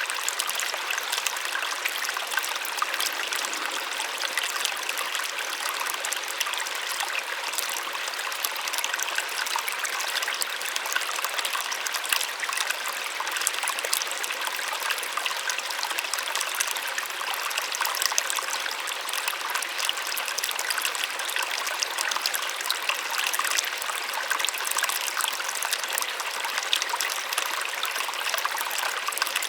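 Small waterfall splashing and trickling steadily, a continuous soft rush of falling water with fine splashes and little deep rumble.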